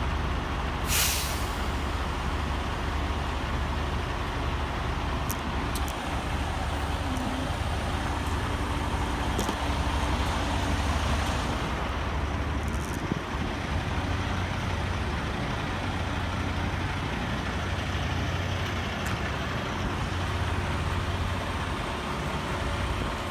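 Tractor-trailer engine running steadily with road noise while driving. About a second in there is a short hiss of air from the truck's air brakes.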